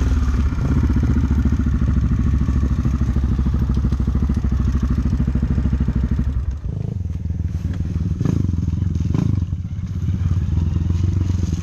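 Motorcycle engine running at steady throttle on a rough dirt trail. The note drops about six and a half seconds in, followed by a few knocks from the bike over uneven ground.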